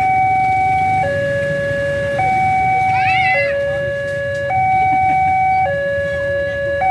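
Level-crossing warning alarm sounding a repeating two-tone signal, a higher note and a lower note alternating about once a second, while the crossing is closed for an approaching train. A low steady rumble runs underneath, and a brief wavering chirp comes about three seconds in.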